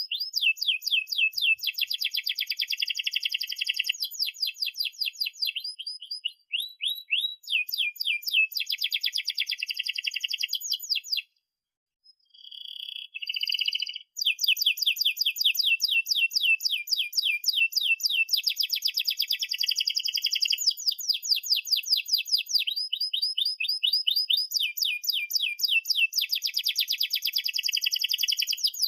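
Domestic canary singing a long song of fast, rolling trills of repeated high notes, phrase after phrase. The song breaks off briefly about eleven seconds in, resumes with a few short notes, then runs on in trills again about fourteen seconds in.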